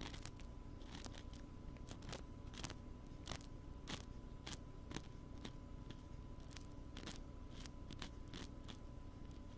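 ASMR ear cleaning: an ear-cleaning tool scratching and clicking irregularly against a binaural microphone's ear, several crisp scrapes a second, over a faint steady hum.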